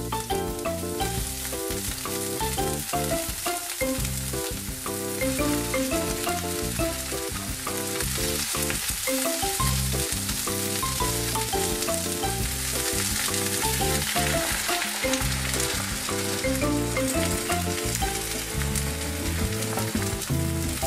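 Garlic chives sizzling in hot oil in a non-stick frying pan, stirred with chopsticks; the sizzle picks up about a second in and runs steadily.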